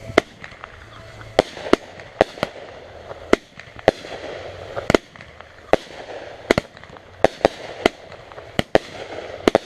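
Fireworks going off: a string of sharp bangs at uneven intervals, roughly one or two a second, some louder and closer than others.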